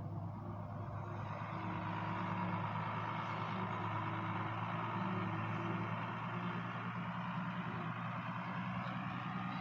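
International 886 tractor's diesel engine running steadily, getting a little louder about two seconds in.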